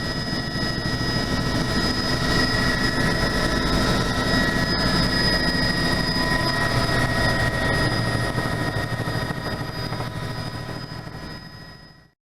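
Helicopter running steadily: a high turbine whine over a low rotor rumble. It fades away and cuts off just before the end.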